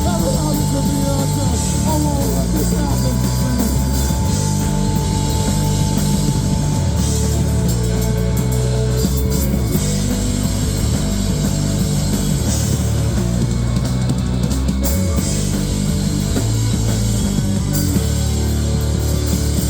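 Live rock band playing an instrumental stretch without vocals: electric guitar, bass and drums, loud and steady.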